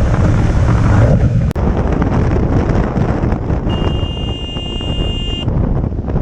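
Motorcycle riding noise: a low engine and road rumble with wind on the microphone, cut off abruptly about one and a half seconds in and then resuming. Partway through, a steady high-pitched electronic beep sounds for nearly two seconds and then stops.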